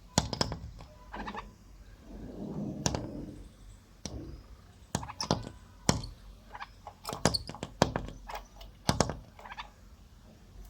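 A string of about fifteen irregular sharp taps and knocks, with a low rustling noise about two seconds in.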